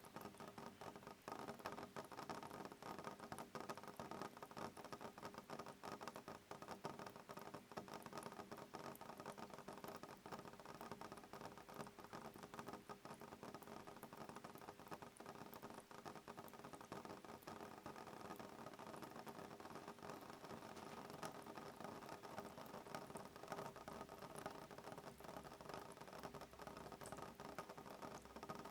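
Soft rain on a window pane: a faint, steady patter of many small drops tapping the glass, with no thunder.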